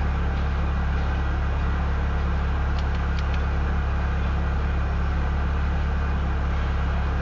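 Steady low rumble of a slow-moving freight train's cars rolling past, with a few faint clicks about three seconds in.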